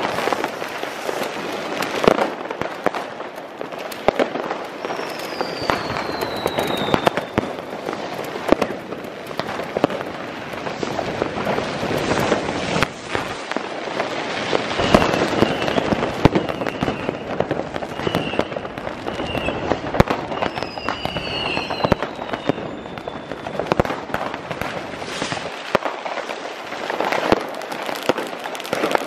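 New Year's Eve street fireworks: many sharp firecracker and rocket bangs, one after another, over a constant crackle. A falling whistle comes twice, about five seconds in and again near the end.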